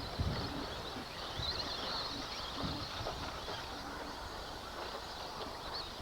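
Electric RC off-road racing trucks running around the track, their motors whining high and wavering up and down in pitch as they speed up and slow down, over a steady background noise.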